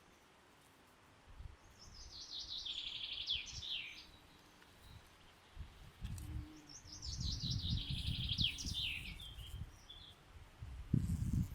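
A songbird singing two phrases of quick, trilled notes, each lasting about two seconds, with a gap between them. Underneath is an uneven low rumble that starts about a second in.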